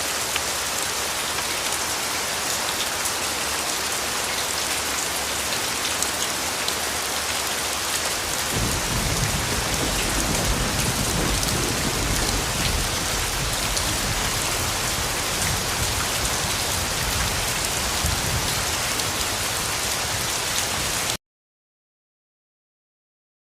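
Steady heavy rain falling, with a low rumble of thunder joining about a third of the way in and rolling on. The sound cuts off suddenly to complete silence near the end.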